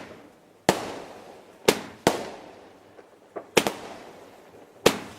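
A 24-shot consumer firework cake firing its shots: about six sharp bangs at irregular gaps of roughly half a second to a second and a half, each fading away after it.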